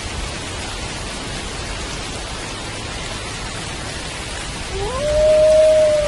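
Steady rain hiss throughout. Near the end a wolf begins a howl, rising quickly in pitch and then holding one long steady note.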